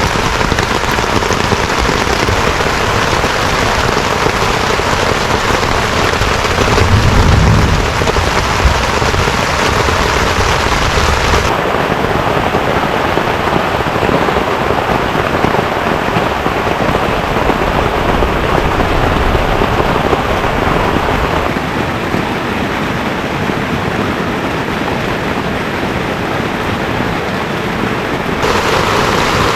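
Heavy rain falling steadily as a dense hiss, with a brief low rumble about seven seconds in. The rain's sound changes abruptly twice, about eleven seconds in and near the end.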